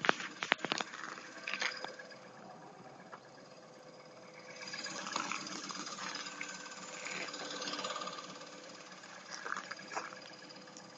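An unexplained knocking in freezing cold over a steady hum. Several sharp knocks come in quick succession at the start, then single knocks now and then.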